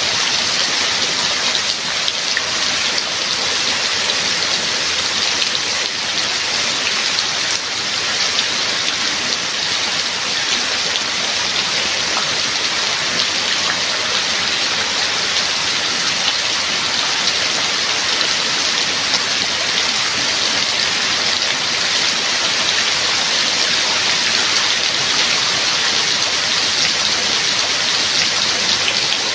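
Steady heavy rain: an even hiss of rainfall with no let-up and no thunder.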